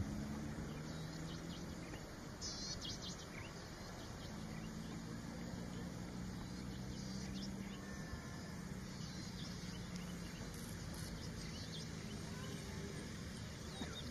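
Outdoor ambience: scattered short bird chirps over a low steady hum that fades in and out.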